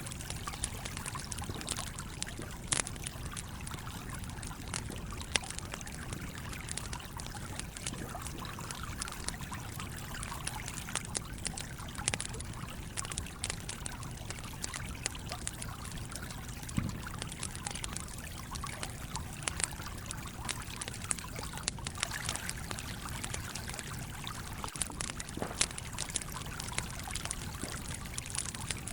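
Wood fire crackling with irregular sharp pops over the steady rushing flow of a stream.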